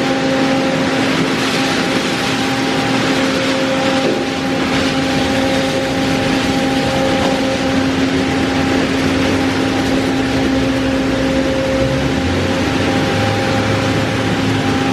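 D&S Odyssey in-bay automatic car wash running: a steady machine hum over a loud, even rushing of water spray or blower air.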